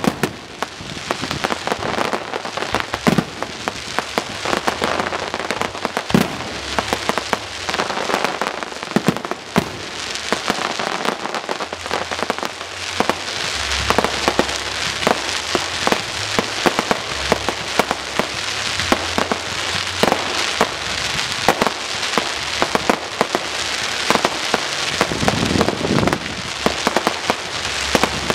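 Daylight fireworks crackling overhead: a dense, continuous crackle of many small pops, with louder sharp cracks scattered through.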